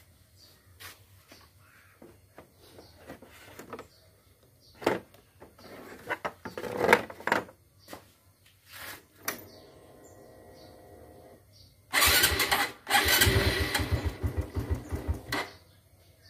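Plastic headlight cowl panels clicking and knocking as they are handled and fitted. About twelve seconds in, a motorcycle engine starts abruptly and runs loudly for about three seconds with a fast, even beat, then stops.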